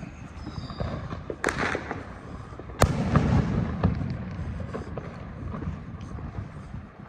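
Fireworks and firecrackers going off: a crackling burst about a second and a half in, then a sharp loud bang with a rumbling echo, and scattered pops and distant booms throughout.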